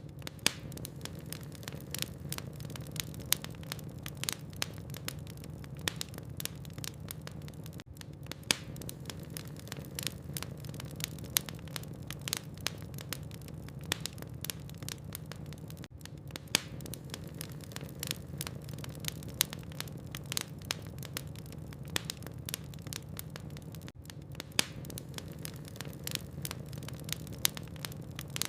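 Log fire in a fireplace crackling: irregular sharp pops and snaps over a steady low rumble of the flames, with a brief dip in level about every eight seconds.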